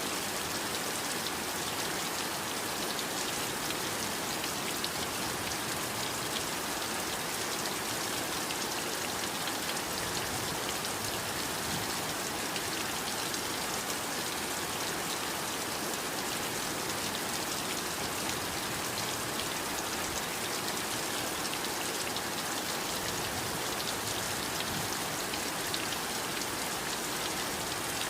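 Steady heavy rain, a dense even hiss of rainfall with countless drops pattering on surfaces.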